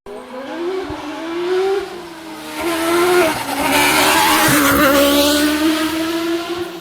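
Rally car engine revving hard, its pitch climbing and dropping several times with the gear changes. A loud rushing hiss of the tyres sliding on the road surface fills the middle few seconds.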